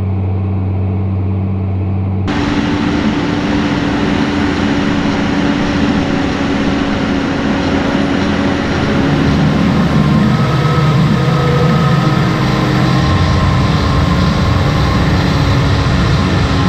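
Tractor engine running steadily as a low, even hum. About two seconds in the sound cuts to a louder, noisier take of the tractor working in the field, with a steady engine hum under a broad rush of noise.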